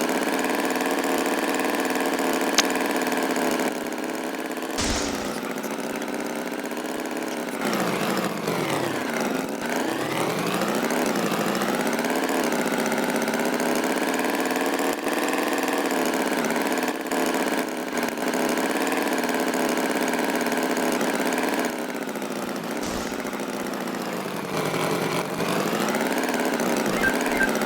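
Animated tractor's engine sound effect running steadily. Its pitch dips and climbs back about eight seconds in and again near the end. There is a short knock about five seconds in.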